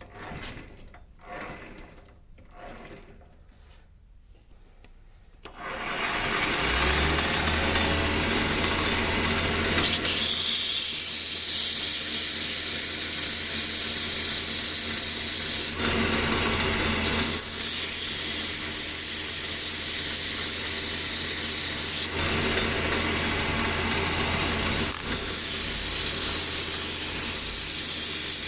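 A few light knocks, then about five seconds in a motor-driven workshop tool starts and runs steadily with a low hum and a loud hiss, the hiss changing briefly several times.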